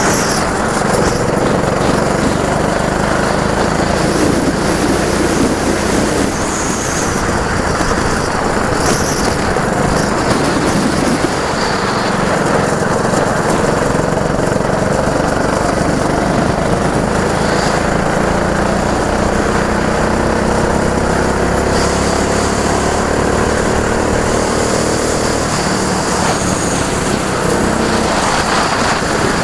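Go-kart engines running loudly on a track, with engine pitch climbing steadily through the middle and later part as a kart accelerates.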